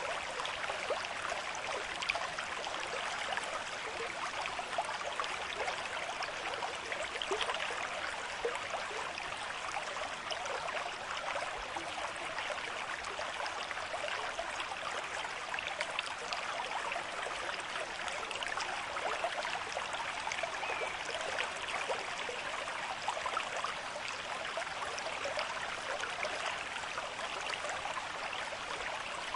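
River stream with a moderate flow, water running and gurgling steadily.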